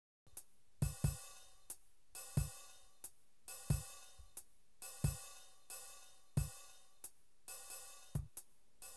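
Background music: a steady drum beat of low kick-drum hits and bright hi-hat or cymbal strikes, starting just after a moment of silence.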